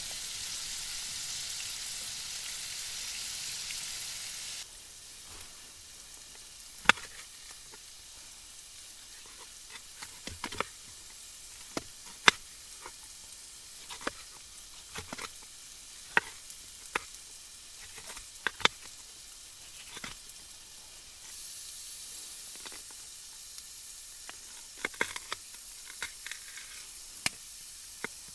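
Stir-fry sizzling in a pan on a portable titanium wood stove. A loud sizzle in the first few seconds drops to a quieter hiss broken by scattered sharp clicks and taps, and the sizzle swells again about three-quarters of the way through.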